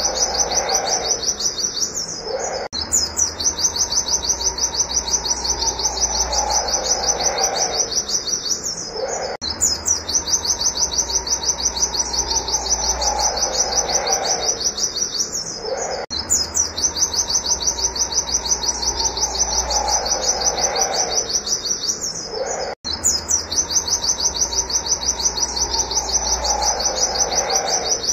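Pleci (white-eye) singing a fast, unbroken run of high, quick-fire notes, the rapid 'nembak' song. A lower, falling sound comes back every six or seven seconds beneath it.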